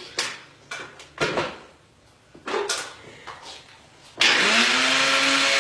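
A few light knocks and clicks, then about four seconds in an electric blender switches on and runs loudly, its motor hum rising briefly as it spins up and then holding steady.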